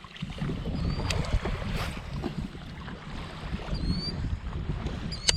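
Wind buffeting the microphone in a low, uneven rumble, while a bird gives a few short, high, up-curving chirps.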